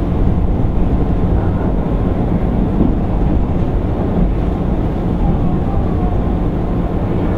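Running noise inside a JR East 205 series 600-subseries electric motor car: the steady rumble of wheels on rail, with a low motor hum underneath.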